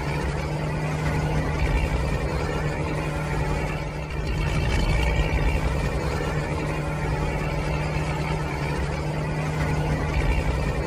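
Steady tractor engine running with a constant low hum and rumble. Its level dips briefly about four seconds in, then carries on.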